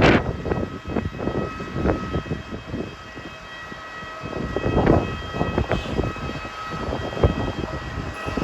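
Strong wind gusting and buffeting the microphone, rising and falling unevenly with a stronger gust about five seconds in. Under it runs a steady high-pitched whine of airliner or ground-vehicle machinery on the apron.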